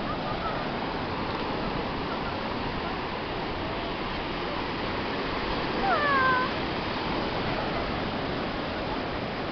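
Steady wash of sea surf and wind, with a short high call that glides in pitch about six seconds in.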